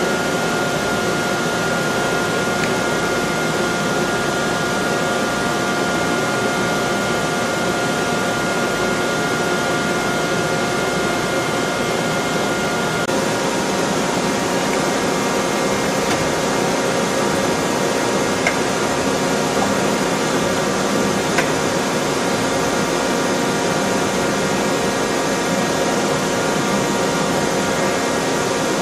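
Takisawa TT-200 CNC turning center running: a steady mechanical hum and hiss with a high whine, which shifts to lower pitches about thirteen seconds in.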